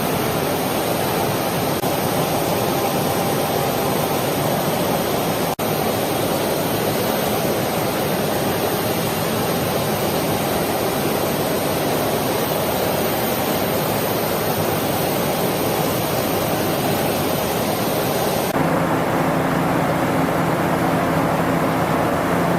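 Loud, steady rushing roar of machinery and moving air in a climatic test chamber. About eighteen seconds in, the hiss thins out and a low steady hum comes forward.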